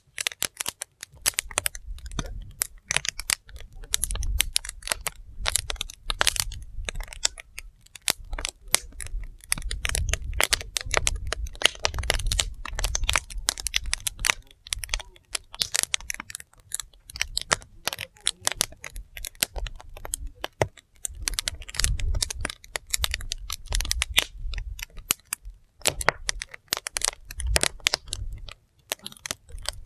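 Firewood fire burning, with dense, irregular crackling and popping of the logs. A low rumble rises and falls underneath.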